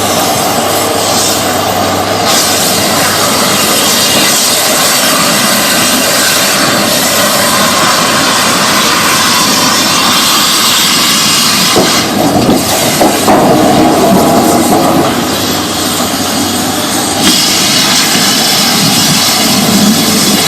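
Cutting torch cutting through heavy steel scrap: a loud, steady hiss and rush from the cutting jet. It changes tone several times as the cut goes on.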